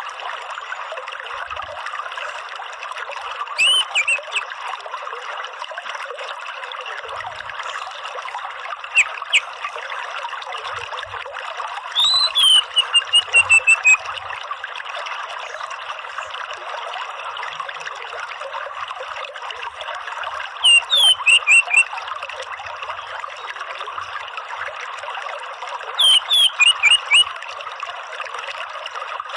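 Orange-headed thrush calling in short clusters of quick, sweeping chirps every few seconds, one of them a falling run of notes, over a steady trickle of running water.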